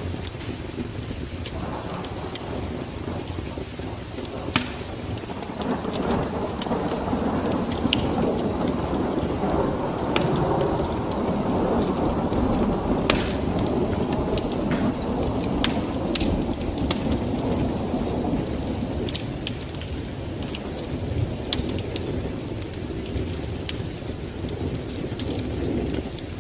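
Rain falling, with a long low roll of thunder that builds about six seconds in and dies away after about twenty. Sharp crackling pops run throughout.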